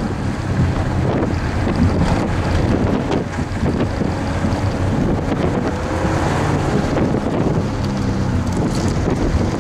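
1988 Toyota Supra's straight-six engine working hard, heard from inside the cabin, its revs rising and falling as the car is driven through an autocross course. Hiss of tyres on wet pavement and wind noise on the microphone run underneath.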